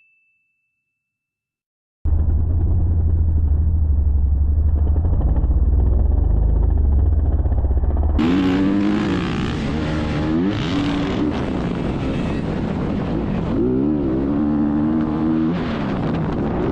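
Silent for about two seconds, then a muffled low engine rumble; about eight seconds in the sound opens up into motocross dirt bike engines revving up and down through the gears.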